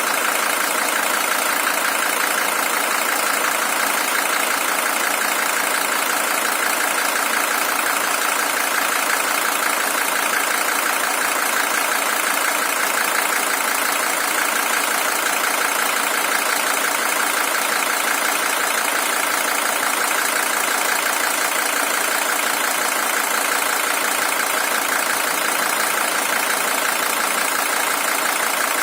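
Mercedes-Benz OM617 five-cylinder diesel engine idling steadily, with an even diesel clatter.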